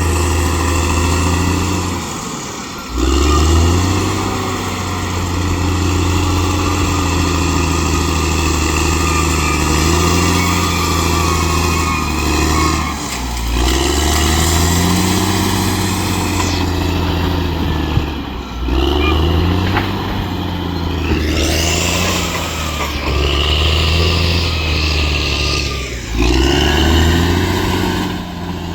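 Bulldozer's diesel engine working under load, its pitch rising and falling as the load changes. The sound breaks off briefly about four times.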